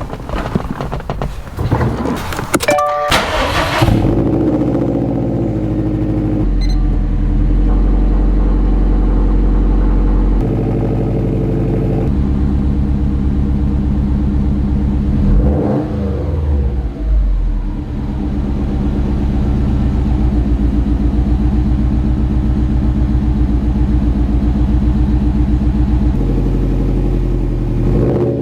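Subaru WRX STI's turbocharged flat-four engine running with a steady, pulsing exhaust note that shifts up and down in steps, with a quick rev around the middle. The first few seconds hold clatter and noise before the engine note settles in.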